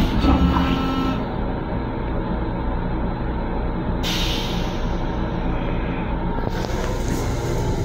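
LIRR M7 electric railcar running, a steady low rumble heard inside its restroom. A knock comes at the start, and a short hiss of air comes about four seconds in.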